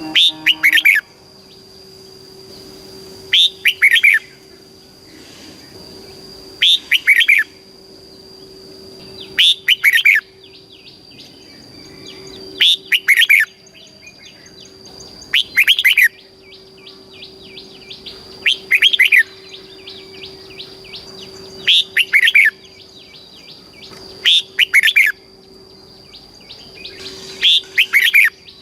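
Red-whiskered bulbul singing: a short, loud, warbling song phrase repeated about every three seconds, about nine times. A steady high-pitched tone and soft chirping run underneath the phrases.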